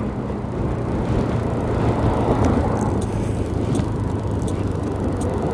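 125cc learner motorcycle's engine running at a steady speed, with road and wind noise around it.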